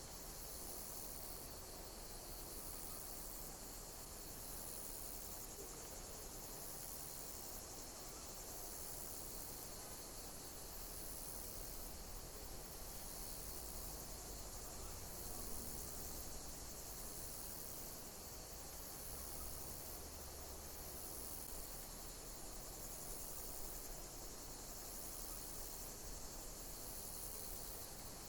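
Insects chirping: a very high-pitched call that repeats at an even pace, about once every second and a half, over a steady hiss.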